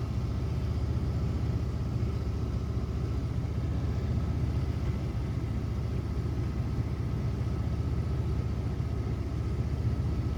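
Steady low hum of a parked car's engine idling, unchanging throughout.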